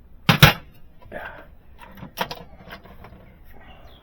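A sharp double knock about half a second in and another sharp knock about two seconds in, with fainter clatter between: hand tools being handled while working on a diesel engine's valve train.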